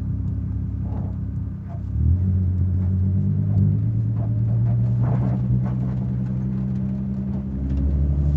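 Volkswagen Design Vision GTI concept's twin-turbocharged 3.0-litre VR6 engine running at low, steady revs, with a step up in engine note about two seconds in.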